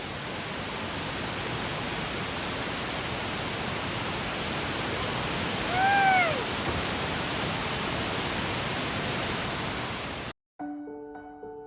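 Steady rushing roar of a large waterfall. About six seconds in comes one short high call that rises and falls. Near the end the roar cuts off suddenly and soft piano music begins.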